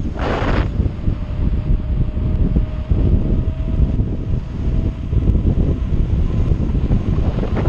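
Wind buffeting the microphone while riding: a heavy, steady low rumble, with a brief brighter hiss just after the start and a faint steady tone through the middle.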